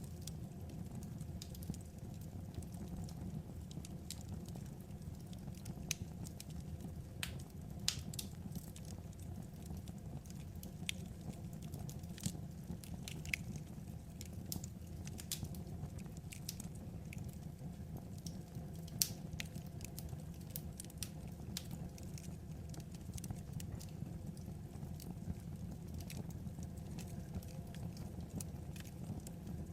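Wood fire crackling: irregular sharp pops and snaps scattered over a low steady rumble.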